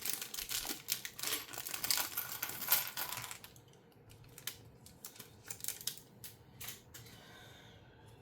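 Plastic bag of LEGO pieces crinkling as it is rummaged through for about three seconds, then scattered sharp clicks of small LEGO plastic parts being handled and snapped together.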